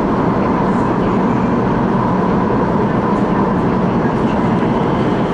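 Electric multiple-unit train of the MTR West Rail Line, built by CRRC Changchun, running steadily between stations, heard from on board. It is a continuous low rumble of wheels and running gear with a faint steady tone above it.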